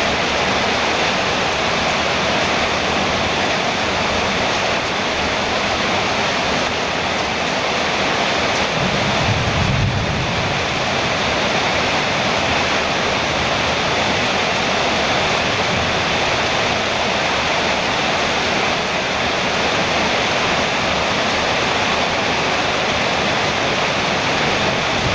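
Heavy rain drumming steadily on a metal roof, a dense even hiss, with a brief low rumble about ten seconds in.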